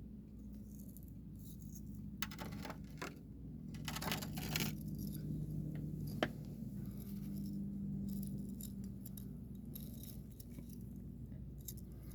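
Stone tools being handled: scattered light clicks and clacks of stones knocking against each other and being set down, over a faint low hum.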